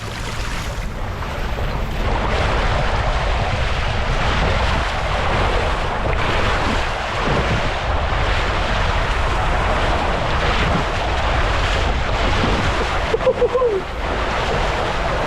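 Steady loud rush of water-slide water, with wind buffeting the microphone, as a rider goes down a mat-racing water slide.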